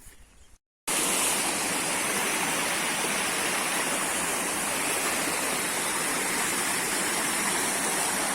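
Waterfall pouring steadily, an even rush of falling water that cuts in abruptly just under a second in, after a brief silence.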